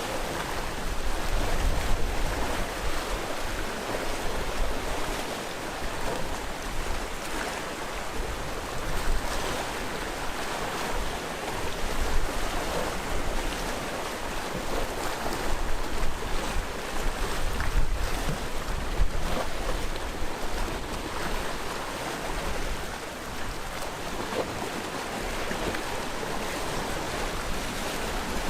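Sea waves breaking and washing ashore in a continuous surf that swells and eases every few seconds.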